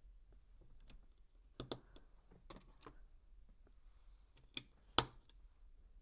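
LEGO plastic bricks being handled and snapped together: a handful of sharp, separate clicks, the loudest about five seconds in.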